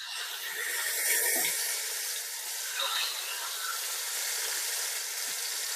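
Skinless, boneless chicken thighs frying in hot oil and melted butter: a steady sizzle that swells about a second in as pieces are laid into the pot.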